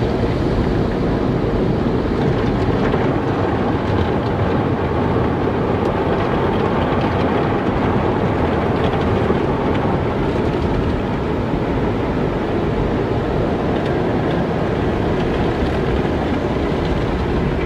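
Car wash running: a steady, unbroken noise of water and machinery.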